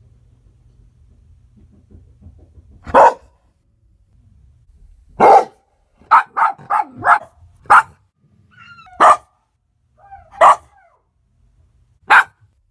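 Dog barking in sharp single barks about ten times, with a quick run of four in a row around the middle and faint whines between some of them. It is barking at the knocking and yelling from outside the room.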